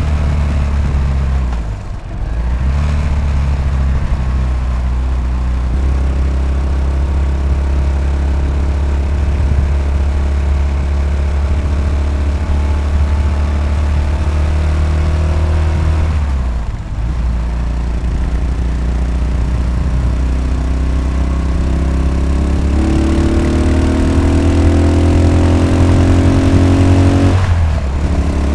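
Yamaha SR500's air-cooled single-cylinder four-stroke engine under way, with its drumming single-cylinder beat. The engine pulls with rising pitch, broken by three brief drops where the throttle closes: one about two seconds in, one past the middle and one near the end.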